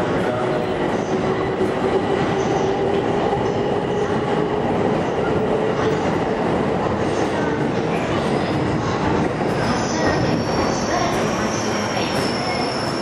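Passenger train moving slowly along the platform, with steady running noise and a low whine that falls slowly over the first few seconds. A high-pitched wheel squeal comes in about ten seconds in.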